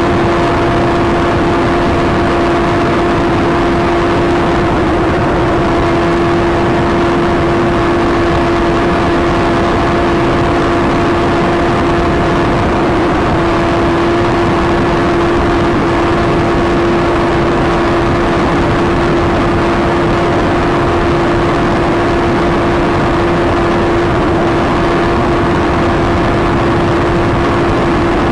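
An engine running steadily at one constant speed, giving a continuous hum with a steady pitch and no revving.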